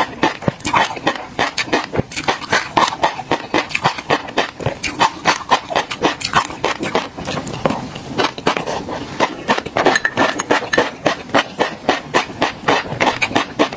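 Close-miked chewing of a mouthful of black tobiko (flying fish roe): a dense, rapid crackle of the tiny eggs popping, several pops a second.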